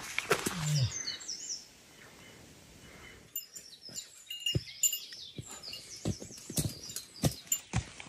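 Footsteps on the trail for about the first second, then small birds chirping with short high calls, mixed with scattered soft knocks.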